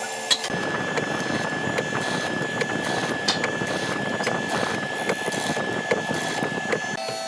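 Electric woodworking power tool running steadily, a dense noise with a constant high whine and scattered small clicks; it starts abruptly about half a second in and cuts off near the end.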